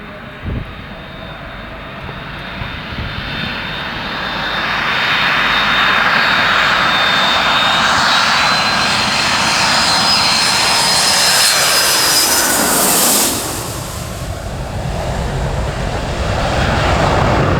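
Boeing 757 twin-jet flying past. The high whine of its turbofans swells as it approaches, then drops suddenly with a sweeping fall in pitch as it passes, followed by the deep rumble of the engines as it moves away.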